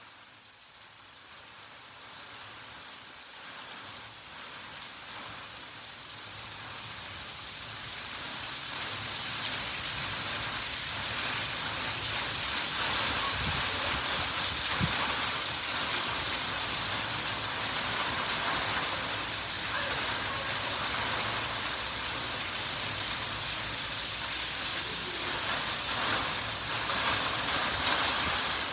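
Rain falling, a steady hiss of drops that swells louder over the first dozen seconds and then holds steady.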